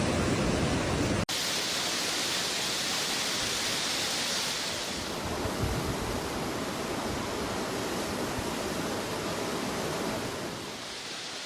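Steady rushing water noise. About a second in it cuts off abruptly and gives way to a brighter, hissier water noise, which softens slightly near the end.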